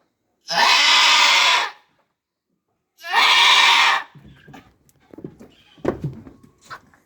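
Goat bleating: two loud, long bleats about two seconds apart, followed by quieter scattered knocks and rustling.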